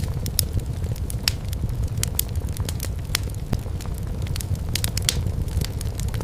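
Wood fire burning in a fireplace: a steady low rumble with frequent sharp crackles and pops of burning firewood, several clicks a second.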